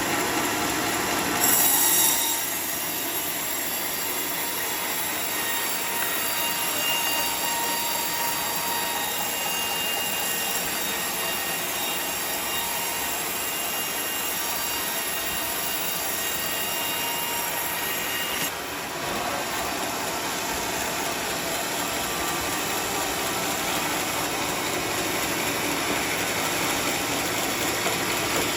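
Sawmill saw cutting teak wood: a continuous high-pitched rasping whine. It gets louder and shriller for a moment about two seconds in, and its tone changes about two-thirds of the way through.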